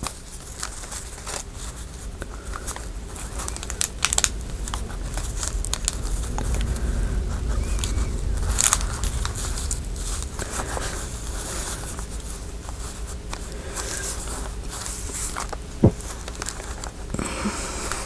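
Paper rustling and crinkling as pieces of paper ephemera are handled, with scattered sharp clicks and a few louder snaps or taps.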